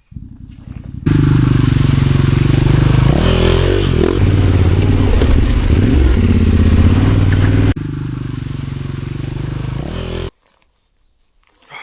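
Motorcycle engine running while riding, heard in several abrupt cuts. It is quieter at first, loud from about a second in with the engine pitch rising and falling, then quieter again, and it cuts off to near silence near the end.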